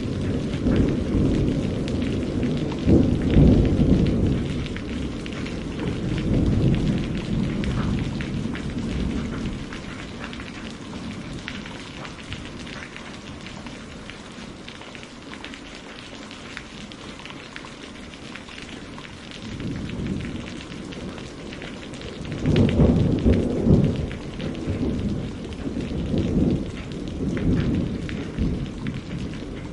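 Steady rain pattering, with two long rolls of thunder: one rumbling through the first nine seconds or so, another building from about twenty seconds in and lasting several seconds.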